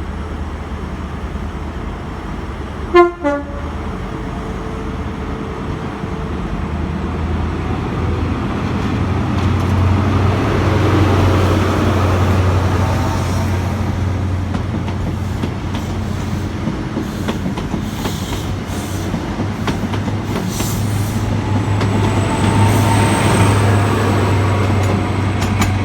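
HST Class 43 diesel power cars pulling out of the station, the low engine drone building and swelling twice as the power cars pass. A short, very loud horn toot sounds about three seconds in, and a thin high whine joins near the end.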